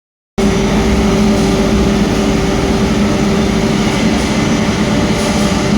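A steady mechanical drone: two steady low hum tones over an even rushing noise, holding one level throughout after starting abruptly just after the beginning.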